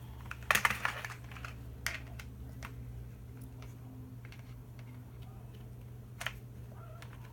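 Plastic clicks and taps as a toy wheel is pressed onto a plastic toy race car. There is a cluster of clicks about half a second in, single sharper clicks near two seconds and six seconds in, and faint taps in between.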